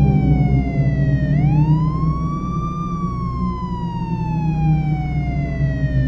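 Ambient background music: a high, siren-like wailing tone that slowly falls, sweeps back up about a second in, then slowly falls again, over a low sustained drone.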